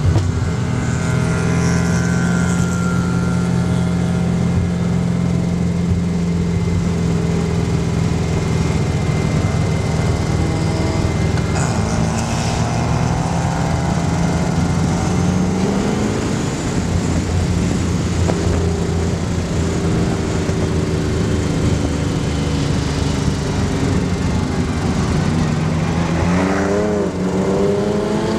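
Race car's 5.3-litre GM LS V8 (LM7) running hard on track, heard from a roof-mounted camera with wind rush. The engine note holds steady, changes pitch about halfway through, and wavers up and down near the end as the revs change.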